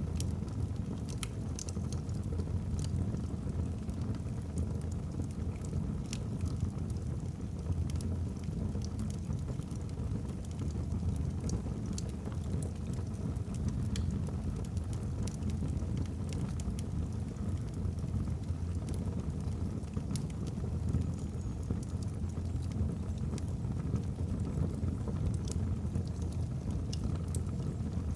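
Wood fire in a fireplace burning with a steady low rumble and scattered sharp crackles and pops from the logs.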